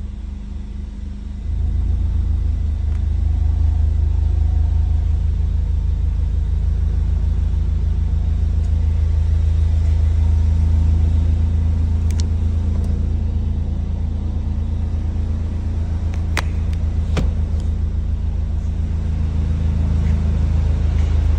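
Volkswagen Golf R's 2.0-litre turbocharged four-cylinder engine idling steadily, getting louder about a second and a half in. A few sharp clicks sound over it in the second half.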